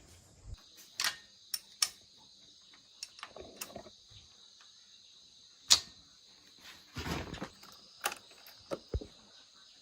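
Scattered sharp clicks and knocks, about a dozen, the loudest about six seconds in, over a steady high chirring of insects.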